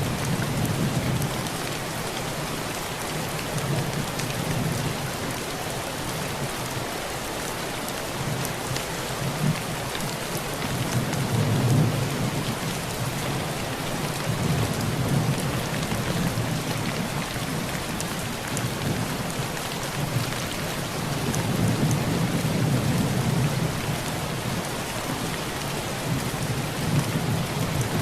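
Heavy rain drumming on a tin roof: a steady hiss full of fine drop ticks. Low thunder rolls swell and fade several times underneath.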